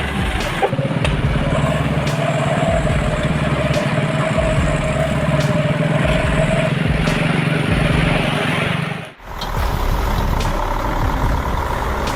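A heavy vehicle engine runs steadily over loud road noise. It breaks off abruptly about nine seconds in and resumes at once.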